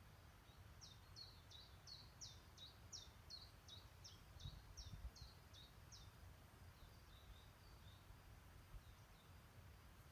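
A small songbird singing a fast run of about a dozen short, high, downward-sweeping notes, about three a second, then a few softer notes. Faint low rumble underneath.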